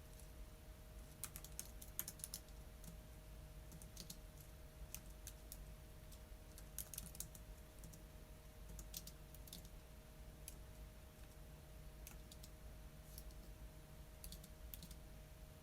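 Computer keyboard typing: faint, irregular key clicks coming in short runs with pauses between, over a faint steady hum.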